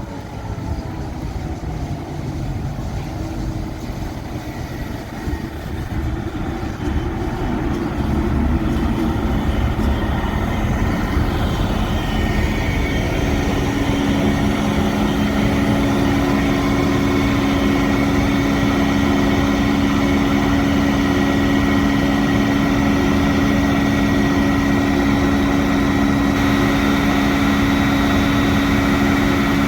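Diesel locomotive engine running, growing louder over the first dozen seconds, then a steady drone with held low tones.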